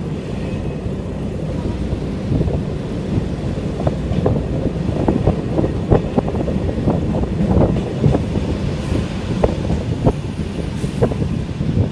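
Passenger train heard from inside the carriage: a steady running rumble with irregular clicks and knocks from the wheels on the track.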